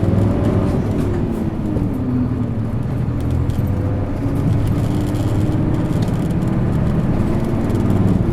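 Isuzu Erga city bus's diesel engine pulling under way, heard from inside the bus. Its note drops over the first couple of seconds, then climbs steadily as the bus gathers speed.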